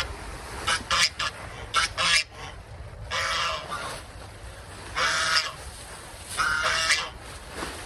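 Farm geese honking: a run of short calls in the first two seconds, then longer honks about three, five and six and a half seconds in.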